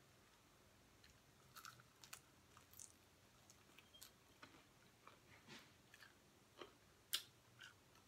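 Faint chewing of crispy fried chicken wings: scattered small crunches and mouth clicks, with one louder crunch about seven seconds in.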